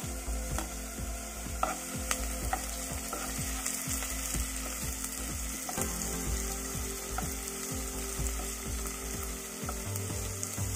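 Chopped onion, ginger, garlic and a dried red chilli sizzling steadily in hot mustard oil in a pan, stirred and turned with a spatula as they fry toward light brown.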